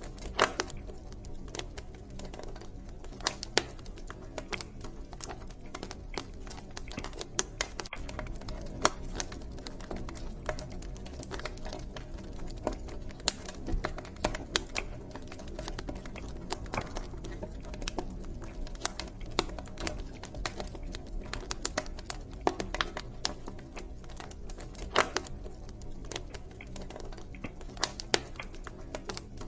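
Wood fire burning in a fireplace: irregular crackles and sharp pops from the burning logs, some louder than others, over a low steady rumble.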